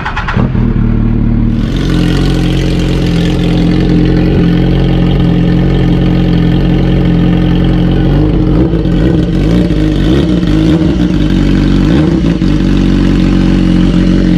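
BMW S1000RR's inline-four engine idling close up, steady, with a slight wavering in pitch in the second half.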